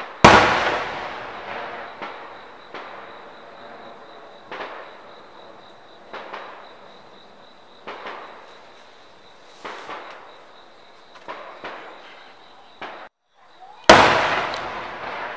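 Aerial fireworks shells bursting: a loud boom a fraction of a second in, its rumble and crackle fading over about two seconds. Smaller bangs follow every second or two, and a second loud boom comes near the end.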